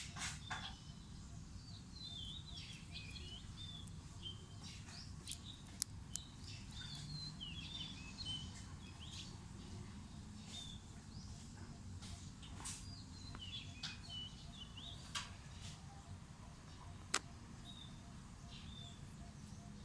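Small birds chirping on and off, with a few sharp clicks over a faint steady background hum.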